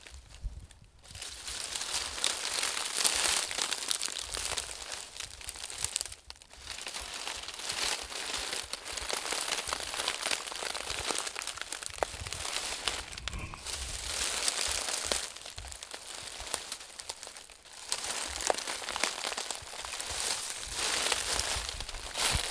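Close-up crinkling and scratching right at the microphone, in long runs broken by a few short pauses, with a low handling rumble underneath.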